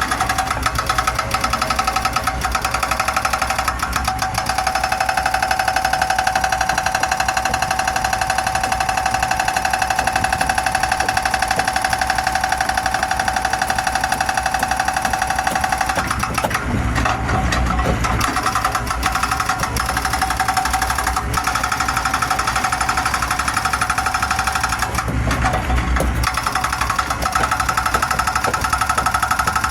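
Mini excavator's diesel engine running with a fast rattle and a steady whine on top; the low engine note swells briefly twice, about seventeen seconds in and again near twenty-six seconds.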